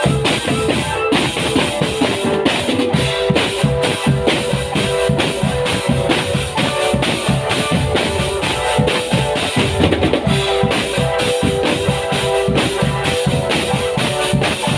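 Marching drum band playing: snare and bass drums beat a dense, fast rhythm under a line of steady held melodic notes.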